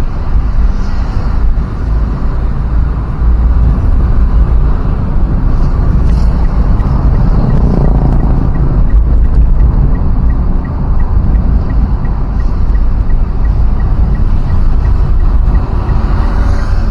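Steady low rumble of a road vehicle on the move: engine and road noise. Faint high ticks repeat about twice a second through the second half.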